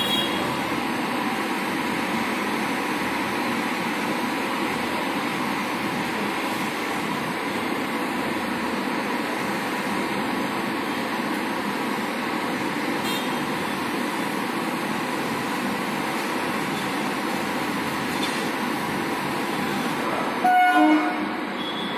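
Locomotive and passenger coaches running slowly along the station track with a steady rolling and machinery noise. Near the end comes one short locomotive horn blast, the loudest sound.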